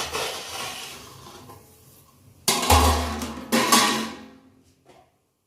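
Metal tray and frying pan clattering as the harcha is slid back into the pan, with two loud clanks about two and a half and three and a half seconds in that ring on briefly.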